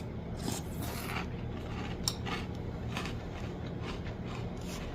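Someone chewing a mouthful of crunchy cereal in milk: irregular soft crunches, two or three a second.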